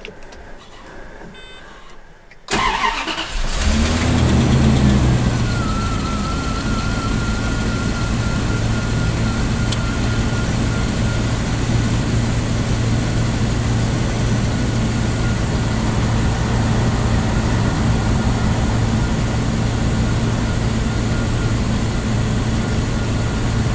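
1999 Bentley Continental R's 6¾-litre turbocharged V8 started from the key: after a click and a couple of quiet seconds the starter cranks it for about a second before it catches and climbs to a fast idle, then it runs steadily with a thin whine over it. The engine management deliberately lets it crank a few revolutions first so the oil pump can prime the engine, then it fires at a fast idle with a mixture that is not too rich.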